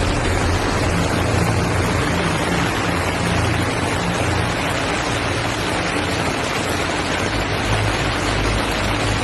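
Loud, steady rush of floodwater, with a low rumble underneath.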